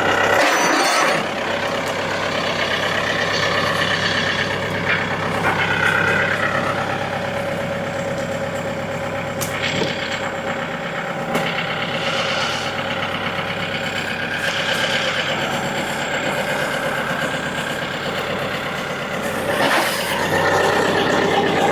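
A 40-horsepower tractor's engine running steadily under heavy load while it moves a large oak log, with a few brief knocks along the way.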